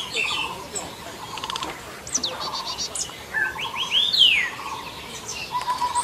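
Birds calling: chirps, quick rattling trills and whistled notes sliding down in pitch, the loudest an arching whistle about four seconds in.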